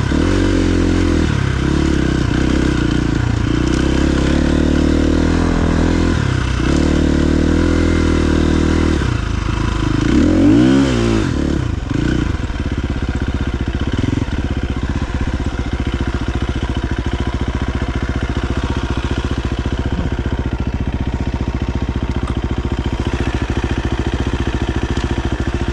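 KTM XC-F 350's single-cylinder four-stroke engine revving up and down under throttle for about twelve seconds, with one sharp rev and drop near the middle, then settling to a steady, evenly pulsing low run, typical of idling.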